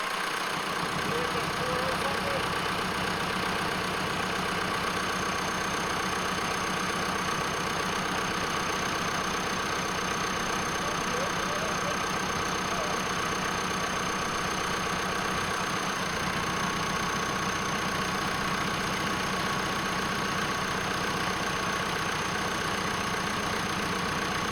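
An engine idling steadily, with an even hum and a faint high whine and no change in speed.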